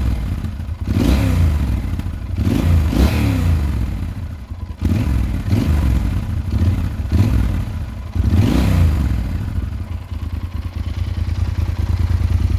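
Yamaha XT1200Z Super Tenere's parallel-twin engine through an Akrapovič exhaust, revved in a series of quick throttle blips, each rising and falling. It settles to a steadier running note near the end.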